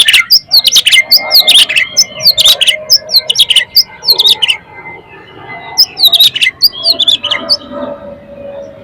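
Oriental magpie-robin (kacer) singing loudly: rapid runs of sharp, varied whistled notes, breaking off about four and a half seconds in and resuming briefly around six seconds.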